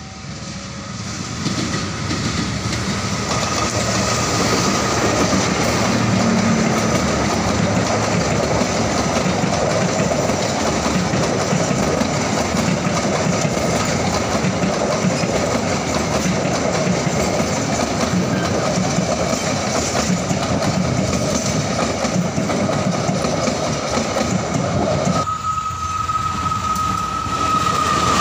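Diesel-hauled passenger train approaching and passing close by: a loud, steady rumble and clatter of the coaches' wheels on the rails, building over the first few seconds. About 25 seconds in the sound switches abruptly to another passing train, with a steady high tone over its rumble.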